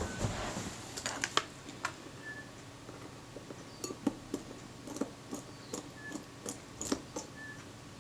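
Small metal tool clicking and tapping against a Kodak Retina IIIc rangefinder's metal parts while a tiny pinhead screw is undone, in scattered irregular clicks. A short hiss comes in the first second, and there are a few very brief faint high squeaks.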